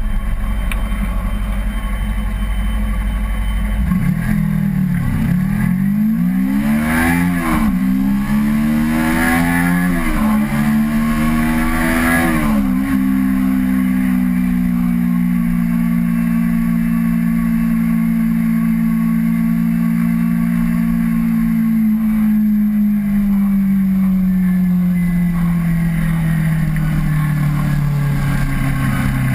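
Kawasaki Ninja 250R's parallel-twin engine accelerating up through the gears: the pitch climbs and drops back at each of four upshifts. It then holds a steady cruise before the pitch slowly falls as the bike eases off.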